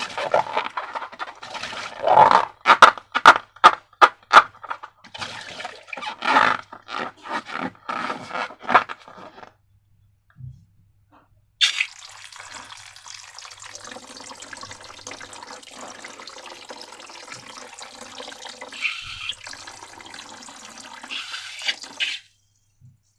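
Sticky slime being squished and worked, with many short wet clicks and squelches for about nine seconds. After a pause, liquid pours steadily for about ten seconds and then stops.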